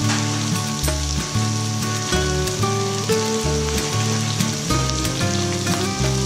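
Sliced onions, garlic and chili sizzling as they sauté in oil in a stainless steel pot, under background music.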